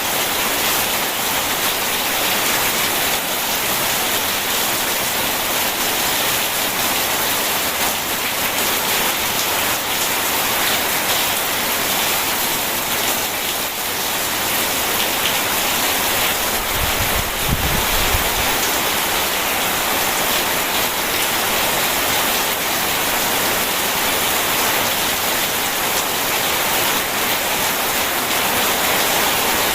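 Steady heavy rain, an even hiss of drops on surfaces throughout, with one brief low rumble a little past the middle.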